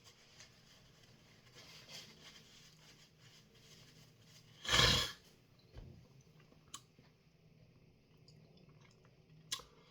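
A single loud, sharp sneeze about halfway through, set off by the chilli heat and pepper dust of the snack, amid faint chewing and mouth clicks.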